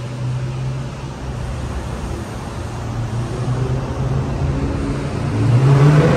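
Supercharged V8 of a straight-piped Dodge Charger Hellcat running loud at low speed in a tunnel, heard from inside the cabin with the windows down. Near the end it revs up, rising in pitch and getting louder as the car accelerates.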